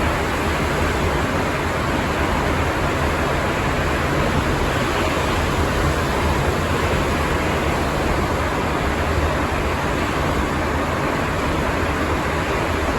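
Steady running noise of a Sapporo Namboku Line rubber-tyred subway train heard from inside the car, an even rumble and roar of tyres on the running track at speed.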